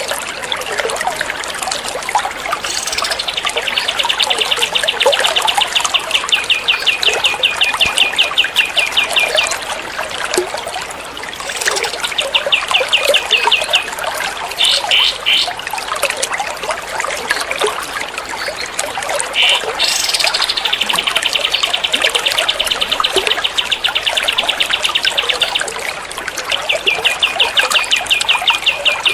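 Recorded songbird calls for bird-song training: long, fast, even trills of high repeated notes, broken off and resumed several times, over a steady trickle of running water.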